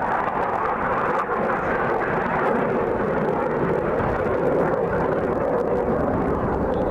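Airplane engine noise: a steady, loud drone that holds level without rising or falling.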